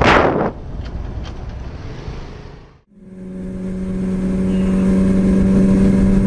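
Wind rushing over a riding microphone, fading away, then after a brief break a motorcycle engine running at a steady speed, a constant even hum that grows slowly louder.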